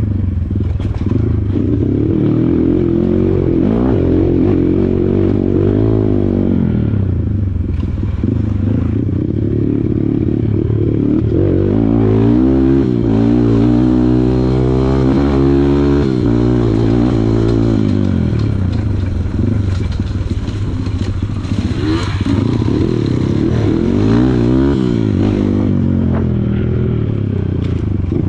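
Kawasaki KLX140 single-cylinder four-stroke dirt bike engine running under changing throttle, its pitch repeatedly rising and falling as it revs, with some clattering.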